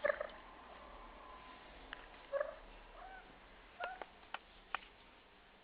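Cat giving a few short, soft meows spaced a second or so apart, with a few faint clicks between them.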